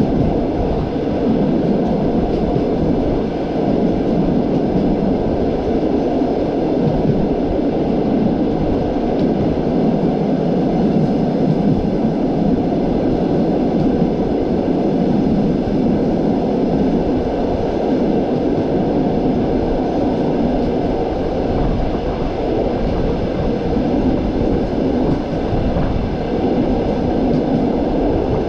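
Passenger train carriage running at speed, heard from its window: a steady, even rumble of wheels on the track.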